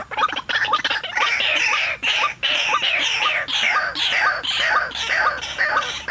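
White-breasted waterhen (ruak-ruak) calling: a fast run of short ticking notes, then from about a second in a steady series of repeated harsh calls, about two a second.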